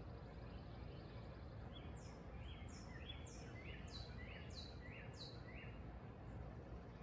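A bird calling a run of about six short, quick notes, each sliding down in pitch, about half a second apart, over steady low background noise.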